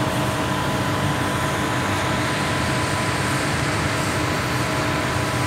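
20 HP floor-standing air conditioner running with its compressor just started: a steady rush of blower air over a hum, with a few held tones.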